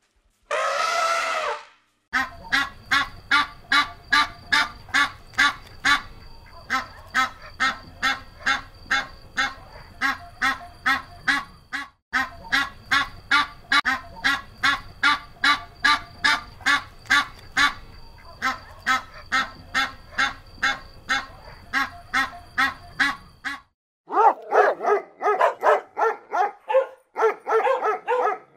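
An elephant trumpeting briefly at the start, then a duck quacking over and over, about two quacks a second for some twenty seconds, then several dogs barking near the end.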